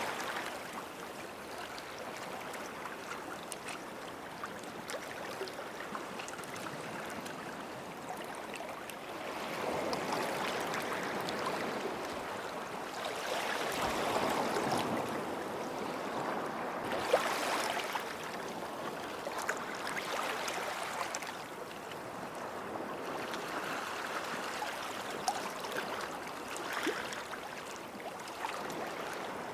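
Small sea waves washing onto a sandy shore, the wash swelling and easing every few seconds, with faint splashes and trickles.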